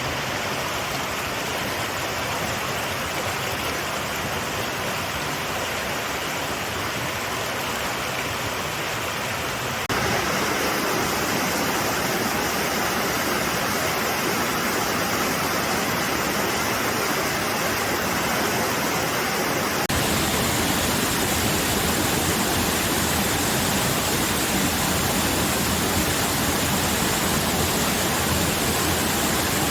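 Mountain stream rushing over rocks, a steady rush of water. The sound changes abruptly twice, about ten and twenty seconds in, getting a little louder each time.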